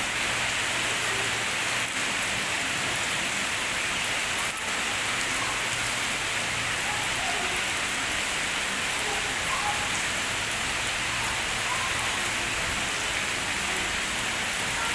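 Steady rain falling on a pond, a dense, even hiss of drops hitting the water.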